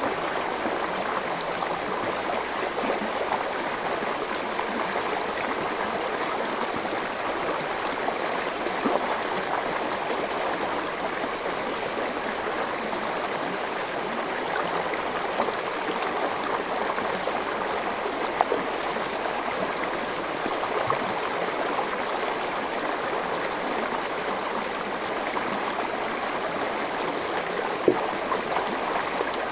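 Forest stream flowing in a steady, even babble, with a few brief louder splashes here and there.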